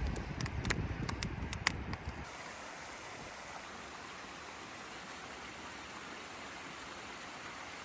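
A few sharp clicks and crackles over a low rumble, then, about two seconds in, a steady even rushing noise like running water takes over.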